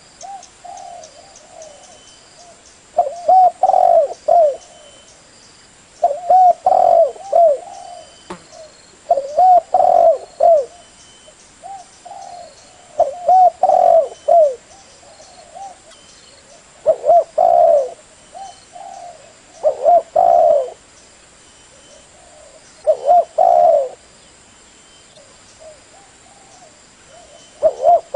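Spotted dove cooing: a loud phrase of several coos about every three seconds, with softer coos in between.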